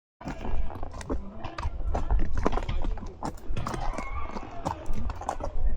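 A horse's hooves clopping at a walk, an irregular run of knocks, over a steady low rumble of wind and handling noise on the microphone.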